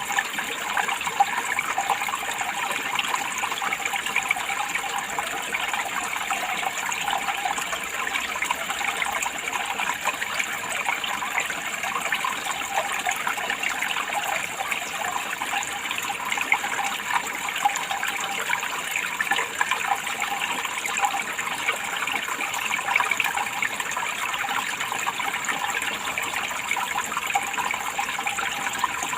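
Running water, a steady continuous flow that does not change.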